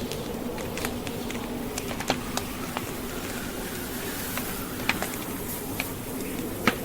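Burning logs crackling in a fireplace: scattered sharp pops and snaps, the loudest near the end, over a steady rushing noise of blizzard wind.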